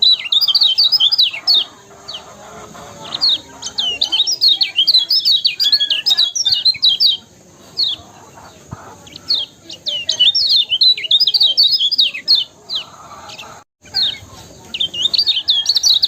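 A kecial kuning white-eye singing in fast, high twittering phrases of rapid chirps, with short pauses between the phrases.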